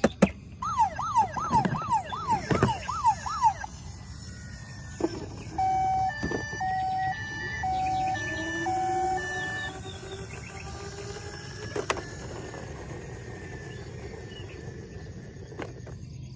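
Electronic toy siren: a fast rising whoop repeated about seven times in quick succession. It is followed by four evenly spaced steady beeps, with a few sharp clicks.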